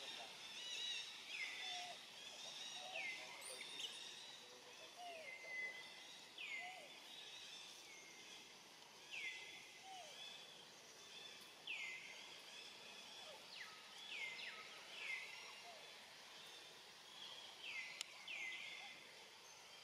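A bird repeating short calls that slide downward in pitch, roughly one every second or two, over faint background noise. A few fainter, lower calls come in the first half.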